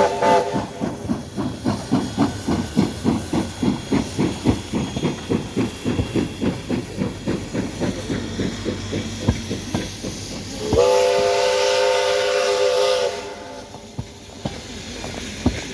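P36 steam locomotive pulling away: a chime steam whistle cuts off, then the exhaust chuffs in a steady rhythm of about three to four beats a second. Near the end a second whistle sounds for about two seconds, with steam hissing.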